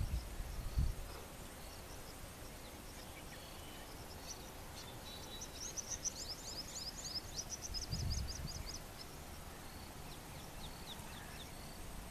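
Open-air ambience with a small bird singing: a rapid run of high chirps from about five to eight seconds in, with scattered single chirps around it. Faint low rumbles near the start and around eight seconds.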